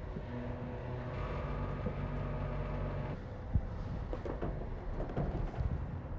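Moto Guzzi V7 850's air-cooled V-twin engine running steadily under way. About three seconds in the note drops away, as when the throttle is closed, with a few sharp knocks and low wind rumble.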